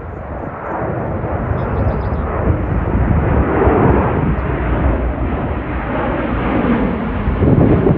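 Jet airliner's engines, a loud rumble of noise that swells over the first few seconds and stays loud.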